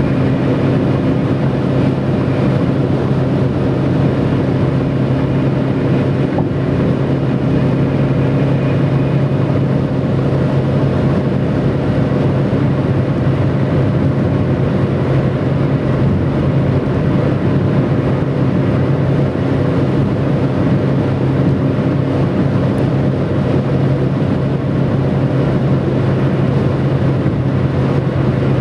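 Stock Bridgestone Turanza tyres on a Mitsubishi Lancer 9 whistling on the motorway surface: a steady, unbroken tonal drone over road noise, like an airplane.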